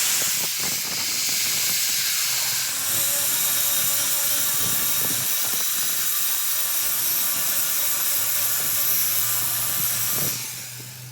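A steady, loud hiss that stops abruptly about ten seconds in, with faint small clicks under it.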